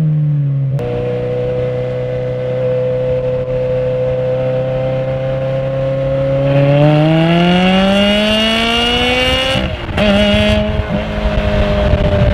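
Ferrari V8 engine under way, holding steady revs, then revving up through about three seconds of hard acceleration. Just under ten seconds in it breaks off briefly for an upshift, then runs on at lower revs.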